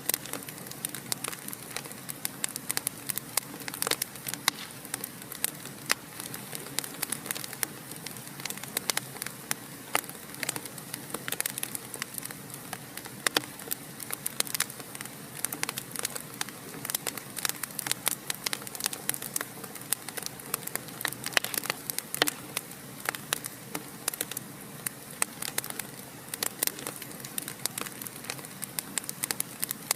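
Wood fire in a fireplace crackling, with a steady hiss and many irregular sharp pops and snaps.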